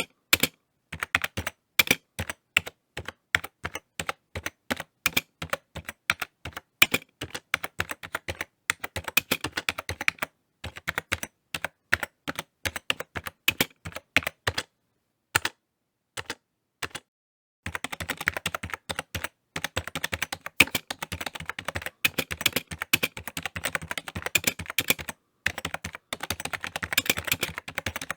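Typing on a computer keyboard: runs of fast, irregular key clicks broken by short pauses, with a longer pause of a few seconds about halfway through and a faster, denser burst of typing after it.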